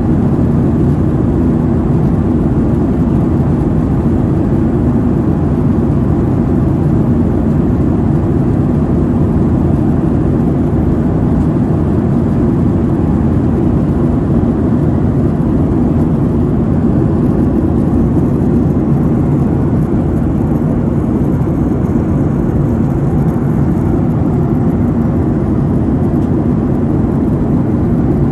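Jet airliner cabin noise: a steady, unchanging low rumble of the engines and airflow heard from inside the passenger cabin.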